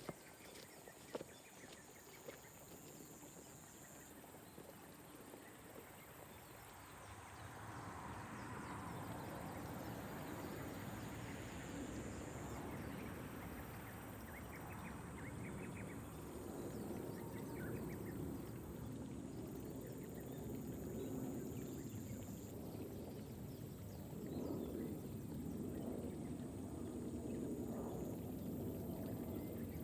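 Gentle rain over rice paddies with a few drips early on. From about seven seconds in, a dense chorus of animal calls swells up and continues, with occasional short bird chirps above it.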